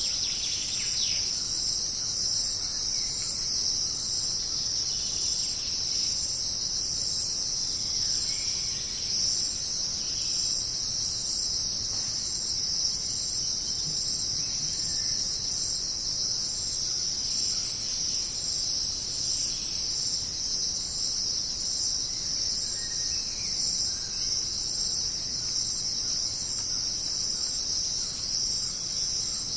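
Dense jungle insect chorus: a steady, high-pitched shrilling drone, with a few faint chirps scattered through it.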